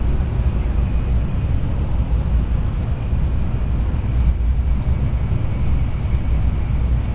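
Steady low rumble of a Tokaido Shinkansen train running, heard from inside a passenger car.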